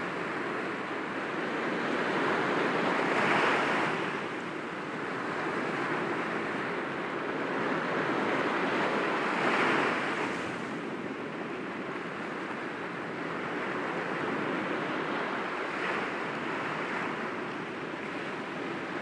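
Sea waves breaking gently against rocks: a continuous wash of surf that swells twice, about three and a half and nine and a half seconds in, with smaller surges later.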